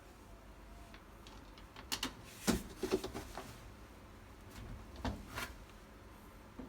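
Scattered clicks and knocks of objects being handled, a cluster about two to three seconds in and another about five seconds in.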